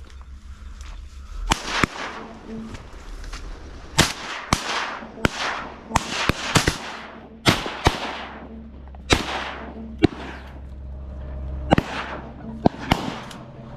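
Shotgun blasts during waterfowl hunting: about sixteen shots in quick, irregular succession, some close together in pairs, each with a trailing echo.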